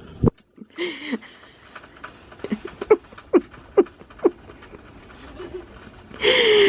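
Children's brief shouts and squeals amid scattered short patter sounds, with a louder, longer shriek near the end.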